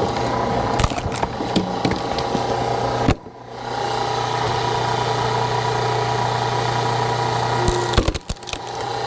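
Hydraulic log splitter running with a steady mechanical hum. There are a few sharp knocks, and the sound drops away briefly about three seconds in and again near the end.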